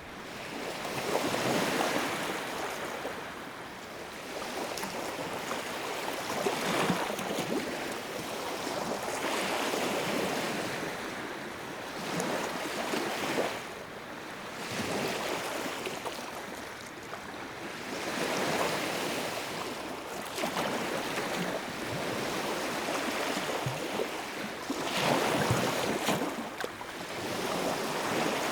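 Wood fire burning in a fireplace: a rushing hiss of flames that swells and eases every few seconds, with small crackles and pops of burning wood throughout.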